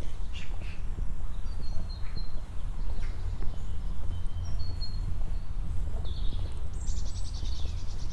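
Small birds calling in short chirps and thin whistles, with a rapid trill about seven seconds in, over a steady low rumble and the walker's footsteps.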